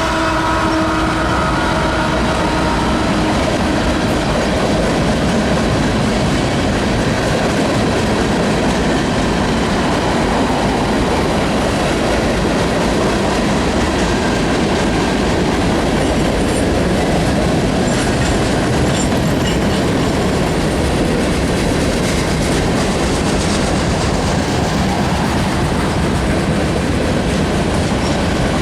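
Norfolk Southern freight train's cars rolling past, a steady rumble and clatter of steel wheels on the rails. The locomotive horn's chord trails off in the first few seconds.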